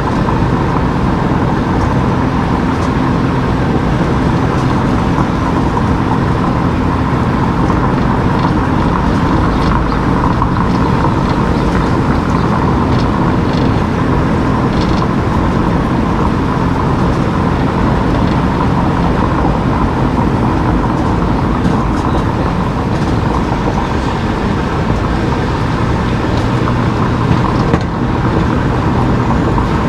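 A car driving at steady speed: a constant hum of engine and tyre noise.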